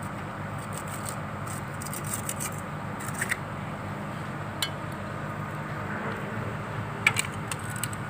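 Excavator diesel engine idling steadily, with light metallic scrapes and clicks scattered through, the loudest about three seconds in and near the end.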